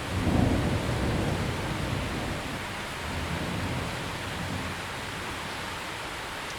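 Thunder rumbling over steady heavy rain. The low rumble swells right at the start, peaks within half a second, rolls on with a second swell a few seconds later, and fades back into the even hiss of the rain by about five seconds in.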